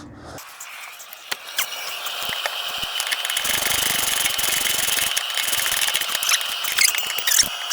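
Ratchet spanner clicking as a bolt holding up the van's fuel tank is tightened, growing louder after the first few seconds.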